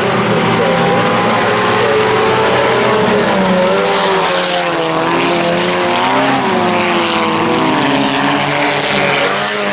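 Several IMCA Sport Compact race cars' four-cylinder engines running laps together, their pitches rising and falling as they accelerate and lift through the turns.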